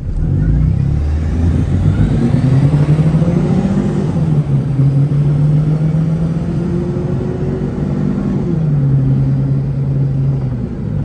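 Car engine accelerating under load, its pitch climbing over the first couple of seconds, holding steady, then stepping down about eight and a half seconds in. A faint rising whine sits over the engine early on, the whine the driver likens to a turbo or supercharger.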